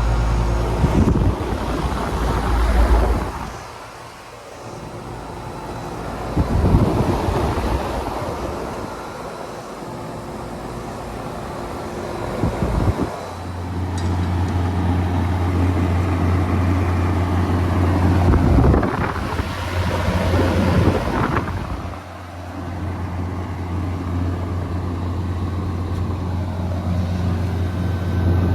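Outdoor central air conditioner condensing units running: a steady compressor hum with the condenser fan. About a third of the way in the sound shifts to a louder steady hum, from a 1980 Carrier Compact unit running beside a newer Payne. Gusts of wind rush over the microphone now and then.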